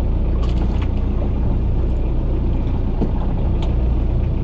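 Boat engine running at a steady low rumble, with a few faint clicks over it.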